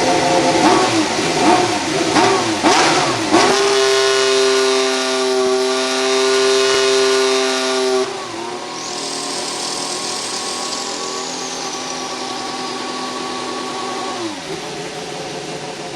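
2016 Formula One 1.6-litre turbocharged V6 hybrid engine revving. There are quick blips up and down for the first few seconds, then the engine holds steady high revs. At about eight seconds it switches abruptly to another steady note with a high whine gliding down, then drops to lower revs near the end.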